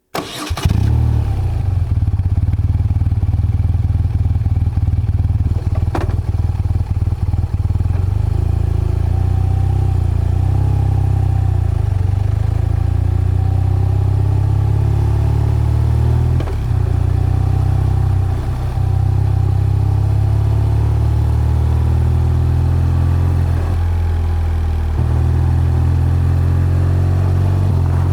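BMW R12's boxer-twin engine and exhaust running steadily as the motorcycle is ridden. The engine note shifts slowly in pitch, with a couple of brief dips a little past halfway.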